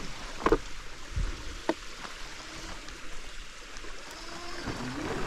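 Electric dirt bike motor whining faintly as it rolls over rough ground, with a few sharp knocks from the bike in the first two seconds. The whine rises in pitch near the end as the throttle opens again.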